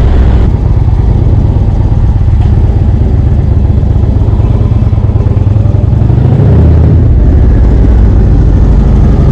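Indian Chieftain's V-twin engine running under way, a loud steady low rumble, with the engine note shifting briefly about six and a half seconds in.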